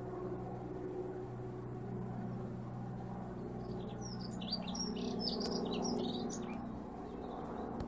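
A small songbird twittering in a quick run of short high chirps for about three seconds in the middle, over a steady low hum.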